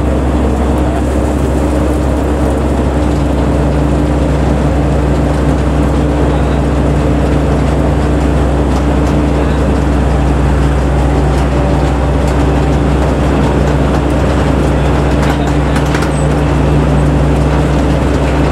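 Kaset Phatthana combine harvester running steadily, its engine giving a constant low drone under a wide, even machinery noise.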